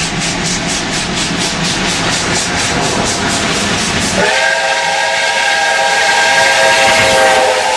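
Steam locomotive L-0022 running with rapid exhaust chuffs, about five a second, that fade into a steady hiss of steam. About four seconds in, its steam whistle blows one long blast of several tones sounding together, lasting about three seconds.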